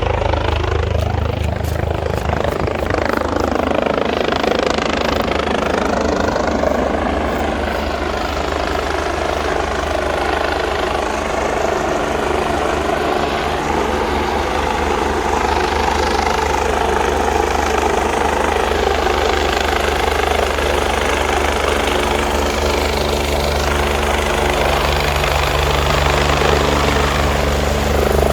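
Helicopter running loud and steady close by as it comes in to land: a constant low rotor rumble under tones that slowly bend up and down in pitch.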